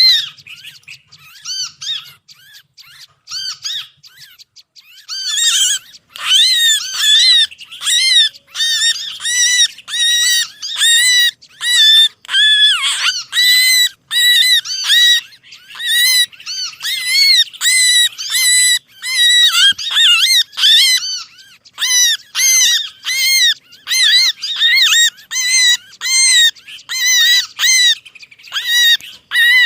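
Lure recording of small songbirds giving agitated, rapid chip calls: the noisy mobbing and distress calls used to draw other birds in close. The short, high chirps are sparse for the first few seconds, then come in a fast, steady stream.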